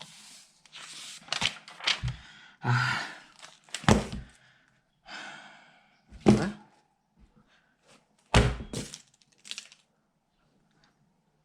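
A series of heavy thuds and bangs in a small room, about five strong hits a second or two apart, with scraping and rattling noise between them.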